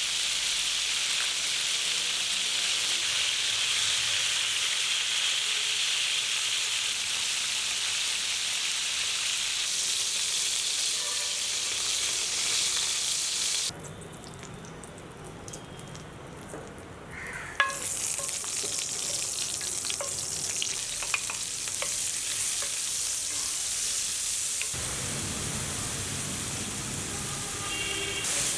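Food sizzling in hot oil in a pan while being stirred, with scattered clicks of a utensil against the pan. The sizzling drops away about halfway through, then comes back after a sharp knock.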